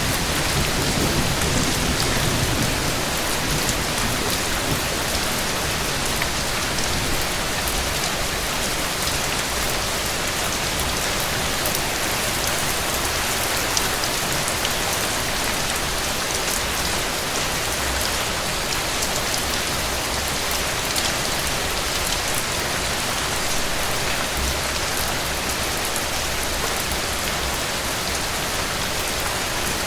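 Steady, heavy rain falling on a surface, an even hiss of drops.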